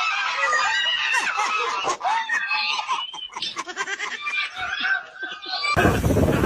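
Geese honking and cackling in a dense, rapid chorus of calls. Near the end it cuts abruptly to loud wind noise on the microphone.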